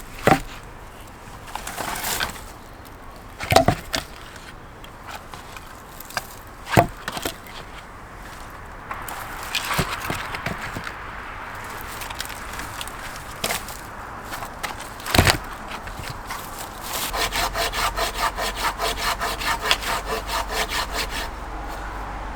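Wood being worked by hand: a few separate sharp knocks, then a fast run of hand-saw strokes, about five a second, lasting some four seconds near the end.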